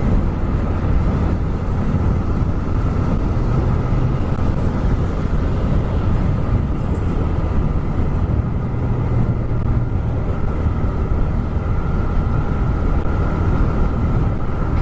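TVS Raider 125's single-cylinder engine and exhaust running steadily while the bike cruises, with a low rumble of wind and road noise over the helmet microphone. The engine note shifts only a little in pitch.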